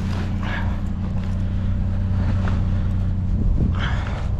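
A vehicle engine idling with a steady low hum, with a couple of faint brief rustles over it.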